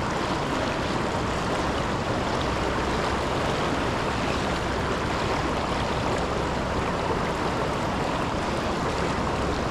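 Steady rush of river water pouring over a waterfall: an even, unbroken roar with no distinct splashes.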